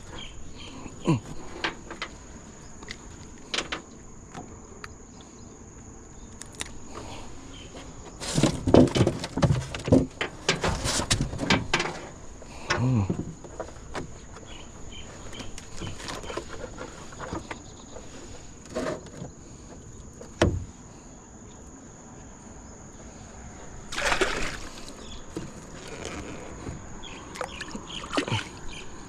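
Water splashing and irregular knocks and clatter in a small boat as a handline with a fish on it is hauled in. The loudest splashing comes about eight to twelve seconds in and again near twenty-four seconds, over a faint steady high-pitched tone.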